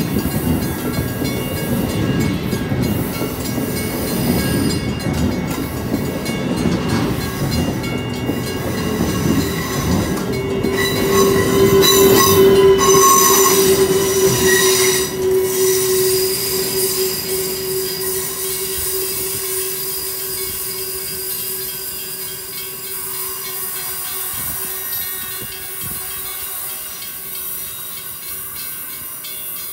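Amtrak passenger train with an ACS-64 electric locomotive passing close by, its wheels rumbling on the rails. A steady high whine joins about ten seconds in and is loudest as the locomotive goes past. The sound then fades gradually as the train pulls away.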